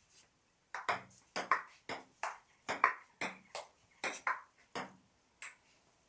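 Table tennis rally: the ball clicking sharply back and forth off the bats and the table, about two to three taps a second, starting about a second in and stopping near the end.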